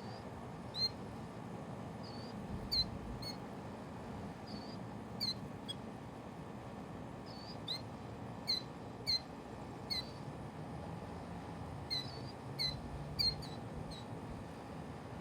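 A small bird chirping: short, high, quick notes, each with a slight hook, about fifteen times at irregular intervals.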